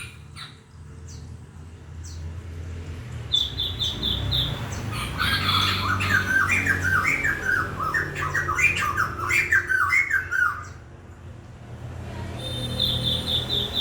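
A bird singing: a quick run of high notes, then a long string of repeated lower notes, then the quick high run again near the end.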